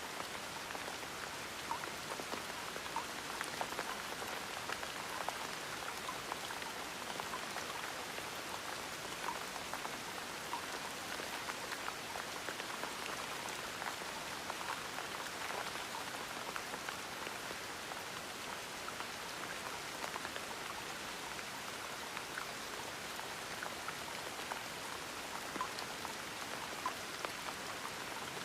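Gentle rain falling steadily, a soft even hiss with many small drop ticks on a surface.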